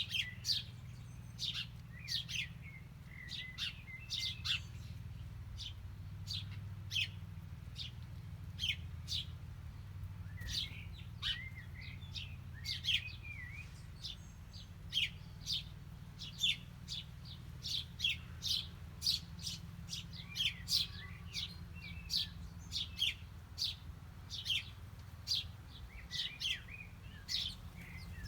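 Small birds chirping: many short, high-pitched chirps, several a second, over a steady low rumble.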